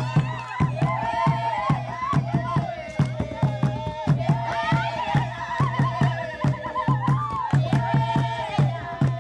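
A group of voices singing over a fast, steady drumbeat, with a few high rising whoops mixed in.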